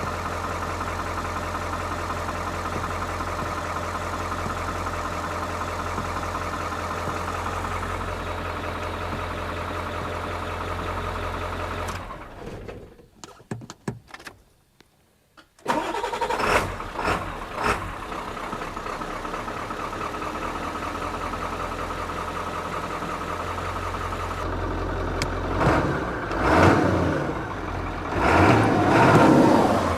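A 1997 Ford F-350's 7.3-litre turbo diesel V8 running steadily, then cutting out about twelve seconds in; after a few seconds of near quiet it starts again with a sudden loud burst and uneven surges, and is revved up twice near the end.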